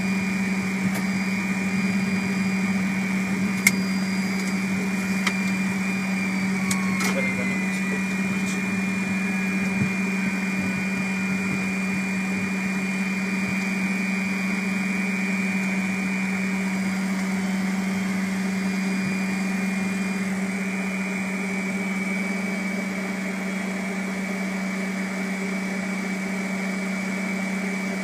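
Fokker 100 cockpit noise on the ground: a steady drone and hum with several steady tones. A few sharp clicks come in the first ten seconds or so, and about seven seconds in a tone slides down in pitch.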